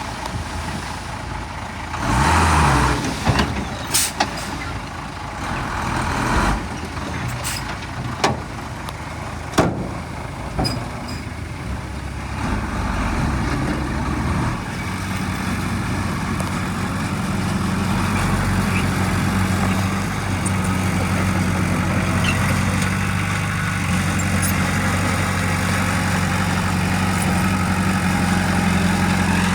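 Heavy diesel machinery running, with a short hiss about two seconds in and several sharp knocks and clanks over the first ten seconds. From about halfway the engine settles into a steady low drone.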